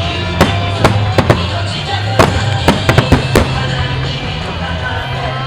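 Wide starmine fireworks firing in quick volleys, a string of sharp bursts, densest in the first few seconds and thinning out after. Music with a steady bass line plays underneath.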